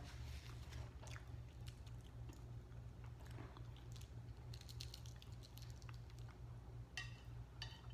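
A person chewing food with the mouth closed, with faint wet mouth clicks and smacks, over a steady low hum.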